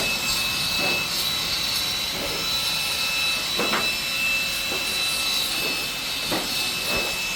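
Steady mechanical noise with a constant high whine, with a few light knocks scattered through it.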